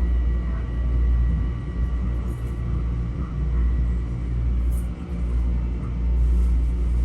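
Cabin noise of a Metro-North M7A electric multiple-unit railcar: a steady low rumble with a faint steady whine from the equipment above it.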